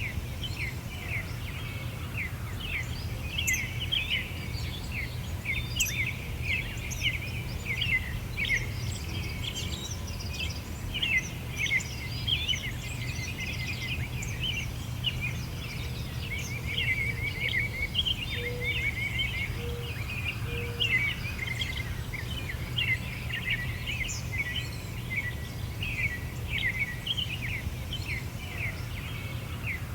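Many small songbirds chirping and singing together in a busy chorus of quick high notes, over a steady low background rumble.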